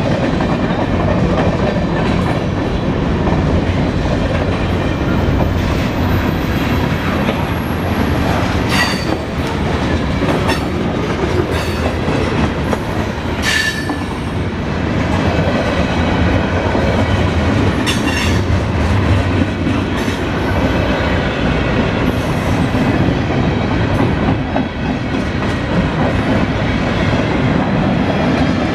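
Freight cars of a CSX local mixed freight train rolling past, with steady wheel rumble and clatter over the rail joints. A few short metallic squeals and clanks from the wheels stand out, the clearest about halfway through.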